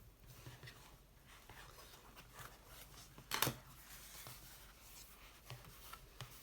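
Faint small handling noises, light clicks and rustles, with one louder brief rustle or knock about three and a half seconds in.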